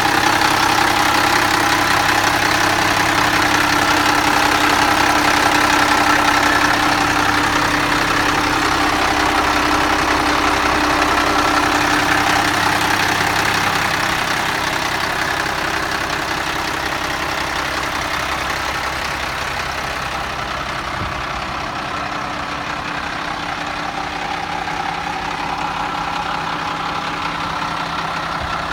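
1995 International 4900 truck's diesel engine idling steadily, growing somewhat quieter over the middle stretch.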